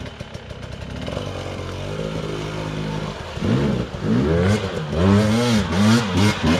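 Dirt bike engine coming closer and getting louder. It holds a steady note at first, then revs up and down repeatedly through the last three seconds.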